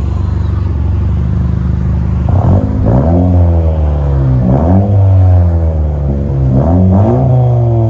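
A 2019 Honda Civic Si's turbocharged four-cylinder engine, straight-piped with its resonator and rear muffler deleted, idles steadily and is then revved three times, each rev climbing quickly and falling back to idle.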